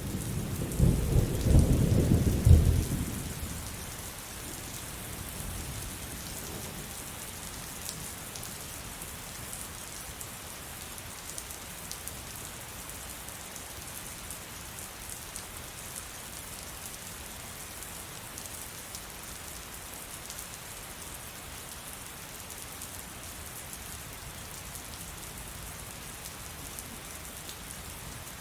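Heavy rain falling steadily, with a loud low rumble of thunder in the first few seconds that fades away by about four seconds in.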